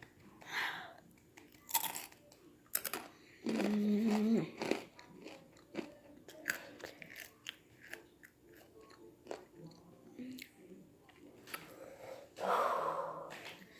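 Someone chewing Takis rolled tortilla chips, a run of crisp, irregular crunches with the mouth. About three and a half seconds in a short held hum of voice sounds for about a second, and near the end comes a breathy rush of air.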